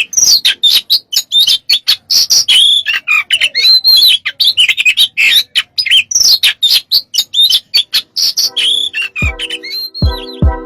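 Oriental magpie-robin (kacer) singing a rapid, varied song of chirps, trills and whistles. Near the end, music with a drum beat comes in under the song.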